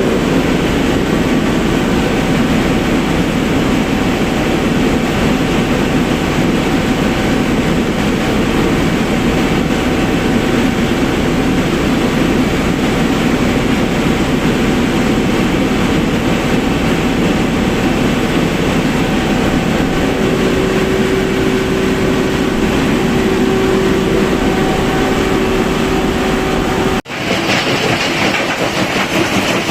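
Deutz BF8M1015 V8 turbo-diesel generator set running, a loud, steady mechanical din. About 27 seconds in it breaks off sharply and resumes with a slightly different running sound.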